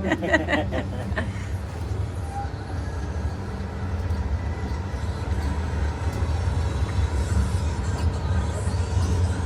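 Amusement park ride train running slowly along its track: a steady low rumble with no clear changes.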